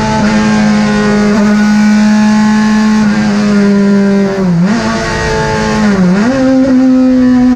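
Turismo Pista Clase 2 race car engine running at high, steady revs. About four and a half seconds in, the pitch drops briefly and comes back, then dips again around six seconds before climbing to higher revs.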